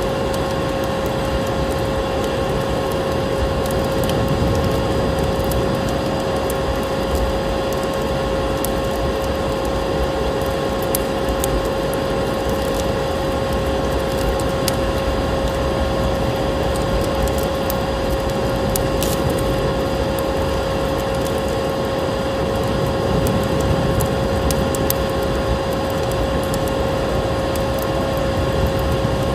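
Steady vacuum cleaner drone, a constant rushing noise with an unwavering mid-pitched whine, layered with fireplace crackling: scattered sharp crackles and pops throughout.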